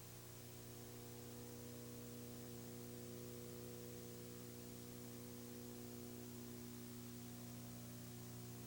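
Faint, steady electrical hum with hiss, a mains hum carried on the old video recording.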